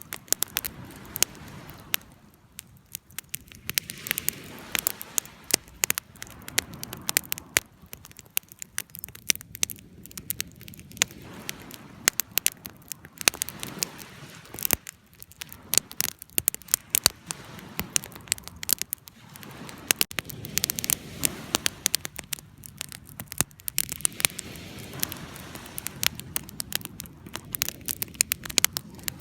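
Wood fire burning: a dense run of sharp, irregular crackles and pops over a soft, low rushing of flames.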